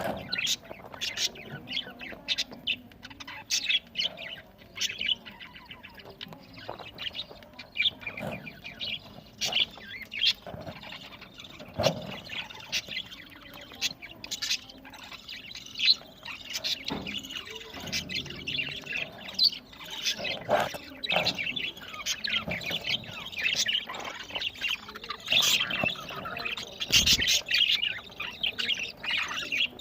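Budgerigars chirping and chattering in a steady stream of short, overlapping calls, with a few sharp knocks now and then.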